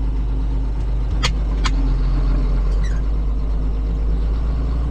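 Farm tractor engine running steadily with a deep, even hum, with two sharp clicks a little over a second in.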